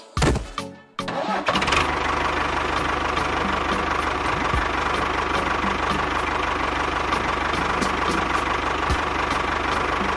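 An engine starting with a brief burst of sound, then running steadily.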